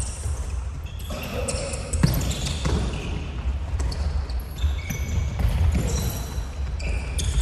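Futsal being played on a sports-hall court: sneakers squeak repeatedly on the floor and the ball is kicked and bounces, with one sharp thud about two seconds in, over a steady low rumble of the hall.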